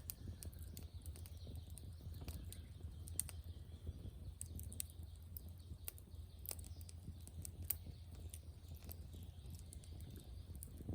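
Burning firewood crackling and popping in a fire pit, with sharp irregular snaps over a low steady rumble.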